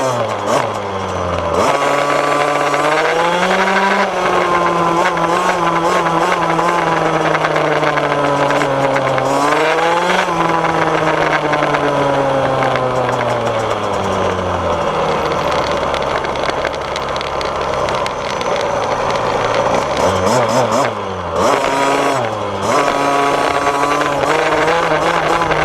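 2014 KTM SX 50 mini dirt bike's single-cylinder two-stroke engine running under throttle, its pitch climbing and falling several times as the bike speeds up and eases off. It drops low and rough for a few seconds past the middle, picks up again quickly, and holds steadier near the end.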